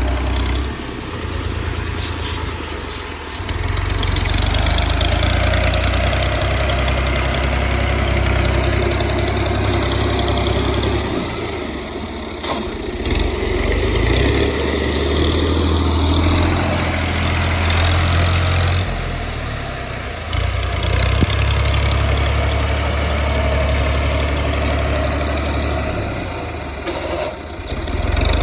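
Tractor's diesel engine running hard, its speed rising and falling several times.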